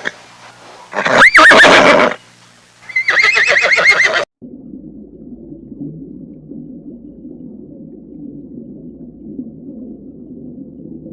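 Horse whinnying twice: a short call about a second in, then a longer quavering whinny that stops about four seconds in. A low, muffled rumble follows.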